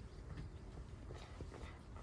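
Stray kittens eating, with a few small, scattered clicks of chewing and feeding over a low steady background rumble.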